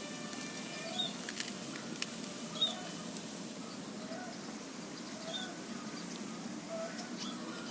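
Zebra dove (perkutut) cooing in short notes that repeat about every second and a half, with small birds chirping high in the background over a steady low background noise.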